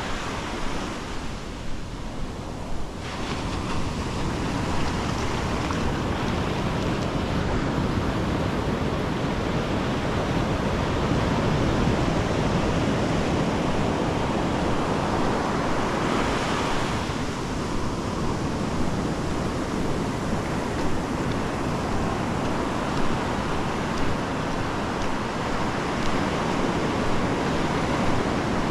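Ocean surf washing on a beach as a continuous rush, swelling about three seconds in and again with a breaking wave around sixteen seconds.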